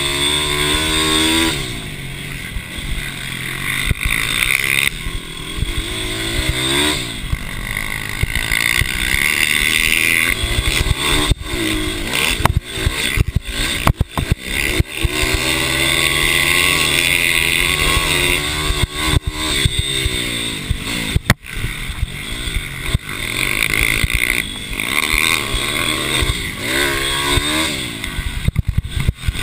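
Mini bike race engines revving hard, the pitch repeatedly rising and then dropping as the riders shift and brake into corners, with a few brief dropouts in the middle.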